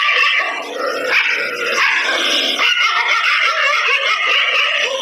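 A group of street dogs barking at one another, the barks of several dogs overlapping into a continuous din.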